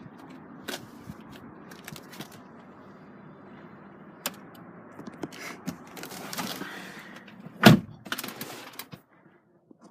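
Rustling and light clicks of handling in the car, then a single heavy thunk about three quarters of the way through, like the BMW X5's door being shut, followed by a few more clicks.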